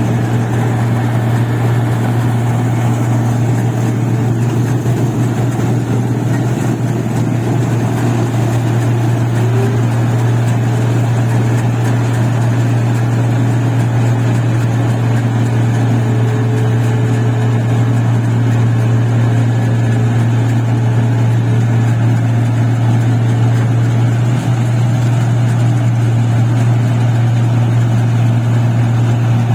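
Paddy machine's engine running steadily at a constant speed, a loud even drone with a strong low hum and mechanical noise over it.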